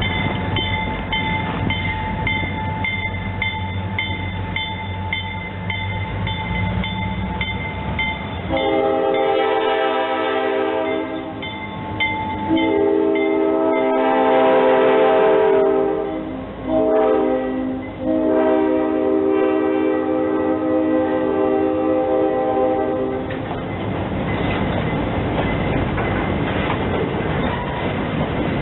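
A grade-crossing bell ringing in quick, even strokes, then a train horn sounds the crossing signal: two long blasts, one short and a final long. A train's rushing rumble follows as it passes.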